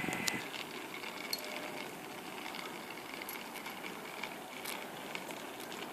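The last of a passing train fading away about half a second in, leaving faint, even station background with scattered light clicks.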